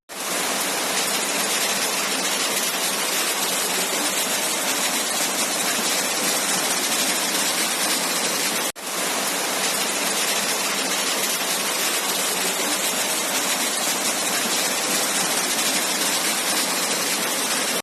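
Heavy rain pouring down in a steady, loud hiss, broken by a brief cut about nine seconds in.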